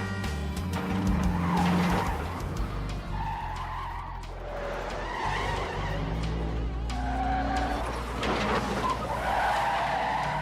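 Film car-chase sound effects: vehicle engines running steadily, with tires squealing and skidding several times.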